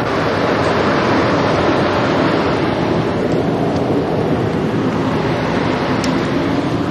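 Loud, steady rushing noise with no clear pitch, swelling slightly in the first second and then holding level.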